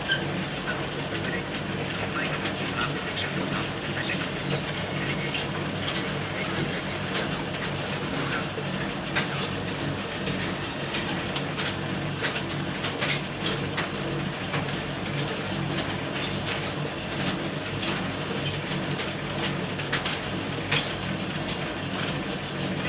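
A machine running steadily with a low hum, and constant rattling and clicking over it.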